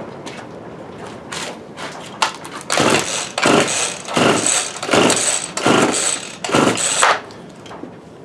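A JCB chainsaw's two-stroke engine being pull-started on its recoil starter: about six quick pulls in a row, each a short whirring crank, with the engine not catching. A few light clicks of handling come before the pulls.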